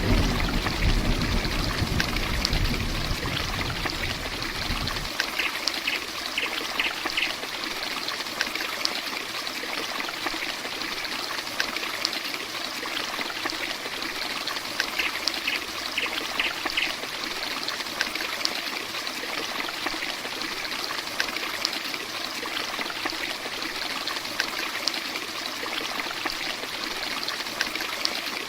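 Heavy rain falling steadily in a dense hiss with scattered drips. A low thunder rumble fades under it and stops abruptly about five seconds in.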